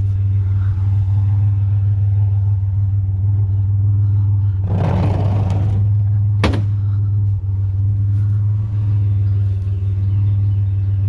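Truck engine idling with a steady low hum. About five seconds in there is a brief rattling scrape, then a single sharp clank.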